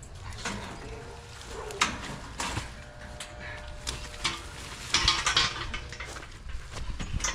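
Scattered knocks and metallic clinks as a heavy heat pump outdoor unit is shifted and stood upright by hand, a handful of sharp hits with a cluster near the five-second mark.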